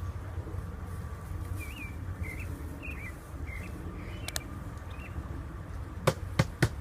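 Small birds chirping in short calls over a steady low outdoor rumble. Near the end come three sharp knocks in quick succession.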